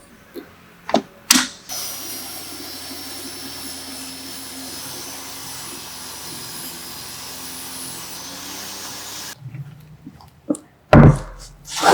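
A few clicks, then a power tool's motor runs steadily with a high whine for about eight seconds and cuts off. A few sharp knocks follow, one of them loud, near the end.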